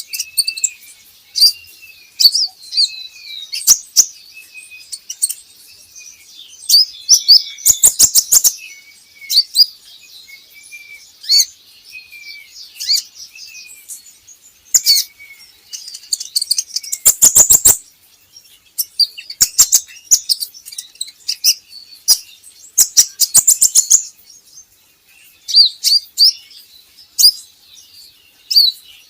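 Kolibri ninja, a small sunbird, singing: a fast, high-pitched twittering warble with wavering notes, broken by several quick runs of sharp ticking chips.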